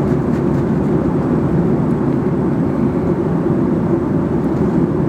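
Airliner cabin noise in flight: a steady, even rush of engine and airflow noise heard from inside the passenger cabin, heaviest in the low range.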